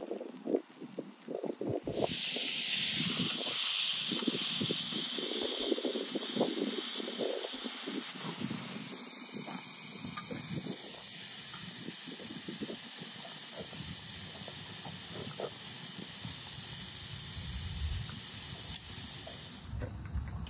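Food sizzling in a hot pan: a steady hiss that starts suddenly about two seconds in, after a few light knocks, eases a little about halfway through, and stops shortly before the end.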